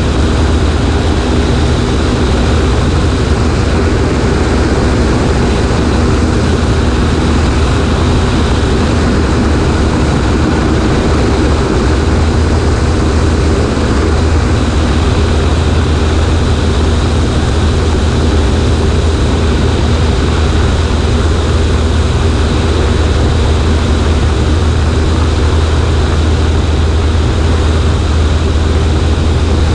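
A Cessna 140A's light-aircraft piston engine and propeller droning steadily in flight, heard from a wing-mounted camera with a constant rush of air.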